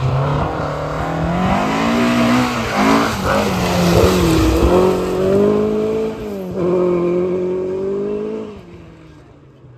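Rally car engine at full throttle, climbing in pitch and dropping back several times as the driver shifts gears, then fading away near the end.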